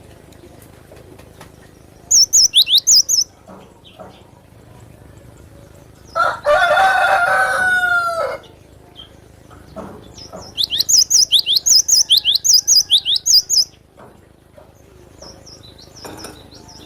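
Cinereous tit (glatik batu) singing two bursts of fast, high, repeated notes, a short burst a couple of seconds in and a longer run of about a dozen notes later on. Between the bursts a rooster crows once, loud, for about two seconds, falling in pitch at the end.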